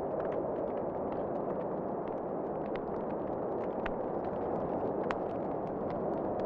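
Wood fire crackling in a fireplace: frequent small sharp pops and snaps over a steady rushing noise, with one louder pop about five seconds in.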